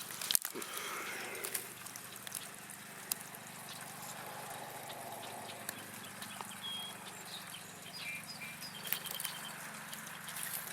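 Quiet woodland ambience: a few short, high bird chirps partway through, including a quick trill near the end, over a faint steady hum. There is some brief rustling of leaves and brush underfoot at the start.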